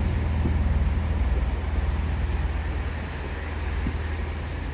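Diesel train at a station platform, its engines running with a steady low rumble that eases slightly in the second half.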